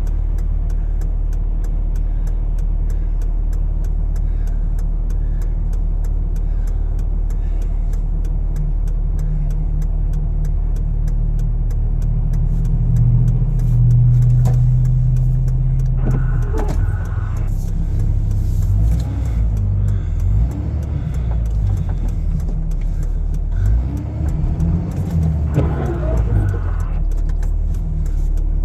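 Vehicle engine and tyre noise heard from inside the cab while driving, a steady low hum that swells for a few seconds about halfway through, with faint regular ticking.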